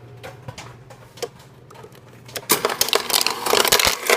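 Microwave oven humming while a small bag of microwave popcorn pops inside: a few scattered pops, then from about two and a half seconds in, rapid dense popping that is much louder.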